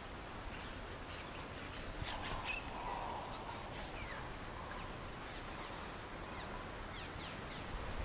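Birds chirping in short, falling notes, a few clusters of them, over a steady outdoor background hiss and low rumble.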